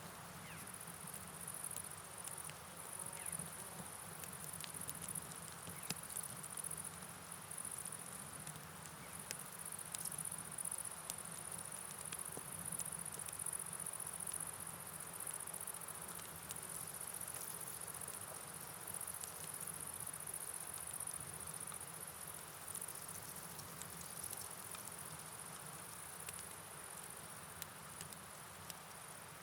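Night ambience: a steady, high-pitched chorus of crickets or other insects over an even rush of rain and flowing river water, with scattered faint ticks.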